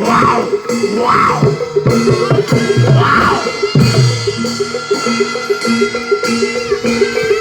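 Barongan accompaniment music: drums and metal percussion playing a fast, repeated pattern of short notes.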